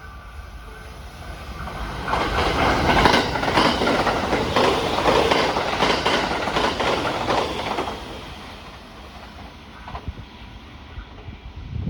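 A train passing close by, its wheels clattering over the rail joints in repeated clacks; it swells in about two seconds in, is loud for about six seconds, then fades away.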